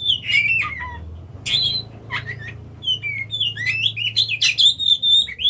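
Captive oriental magpie-robin (kacer) singing in quick, varied phrases of gliding whistles and harsh notes, growing busier in the second half, over a low steady hum.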